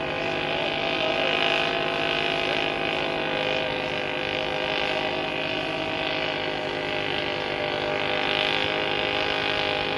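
An engine running at a steady speed, holding one even pitch with no revving.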